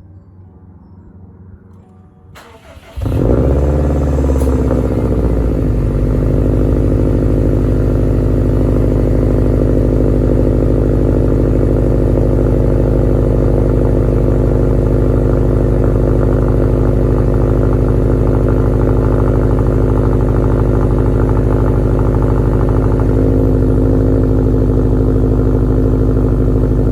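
2015 Subaru WRX STI's turbocharged flat-four engine cold-started: a brief crank between two and three seconds in, then it catches and flares up in revs, settling over the next few seconds into a steady, fast cold idle.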